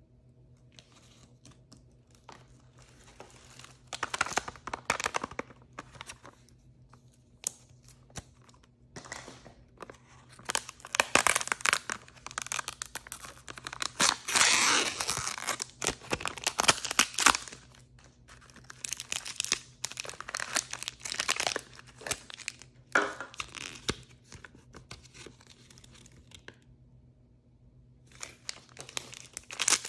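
Blind-bag packaging being torn open and crinkled by hand, in irregular bursts that are loudest in the middle. It stops for a couple of seconds near the end and then starts again.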